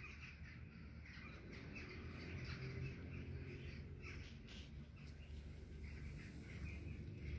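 Several small birds chirping in short, scattered calls, over a steady low rumble.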